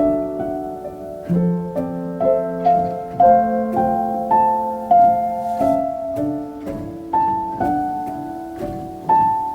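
Soft solo piano music: a slow melody of single notes over sustained chords.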